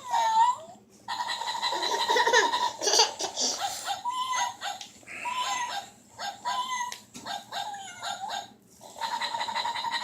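Battery-powered toy puppy giving recorded yips and whimpers from its small speaker, a run of short high calls that bend up and down.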